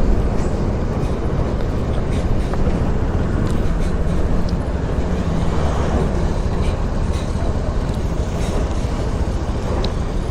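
Steady motorcycle ride noise: wind rushing over the helmet microphone, with the engine and road noise running underneath.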